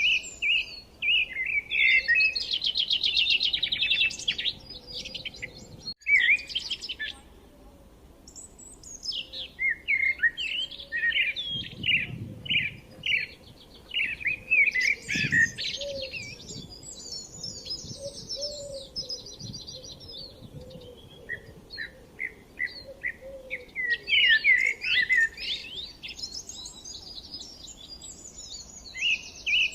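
Several songbirds chirping and singing: quick high notes, trills and short sweeping calls that overlap, with brief lulls between bursts.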